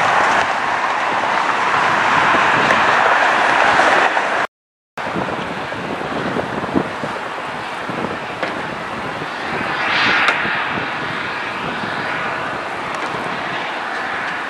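Jet airliner engine noise, a loud steady rush that cuts off abruptly after about four seconds. It then comes back as a quieter rush that swells briefly about two-thirds of the way through.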